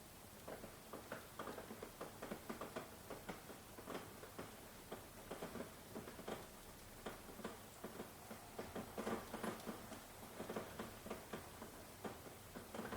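Rain dripping and pattering: many irregular drops tapping close by over a faint hiss of rainfall.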